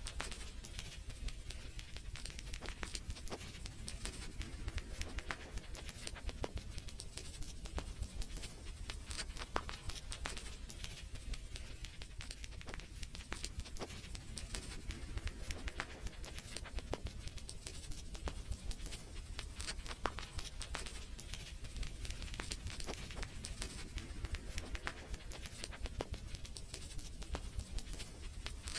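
Wood fire crackling steadily, with many irregular sharp pops and snaps over a low rumble of burning.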